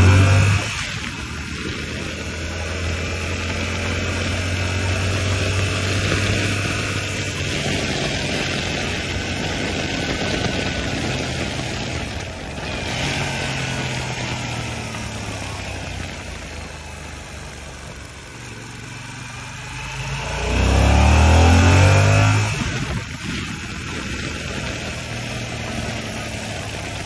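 Yamaha R7's 689 cc parallel-twin engine running under way at a fairly steady level. About 20 seconds in it revs up hard for a couple of seconds, rising in pitch, then eases off.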